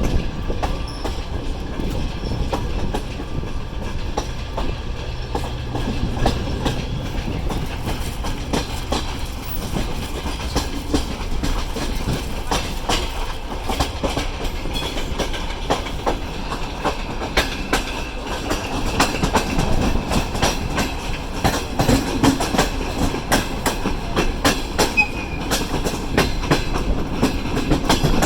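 Passenger railway carriage wheels clattering over rail joints over a steady rumble. The clicks come more often and louder in the second half as the departing train picks up speed.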